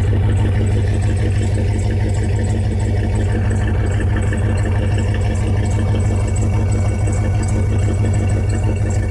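1999 Dodge Durango's 5.9-litre Magnum V8 idling steadily, warming up after a cold start and sounding good.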